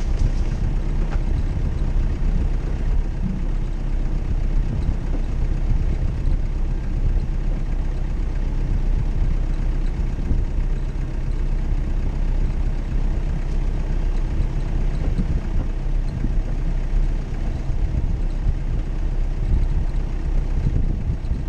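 Off-road 4x4's engine running steadily at low revs, a continuous low rumble with no revving.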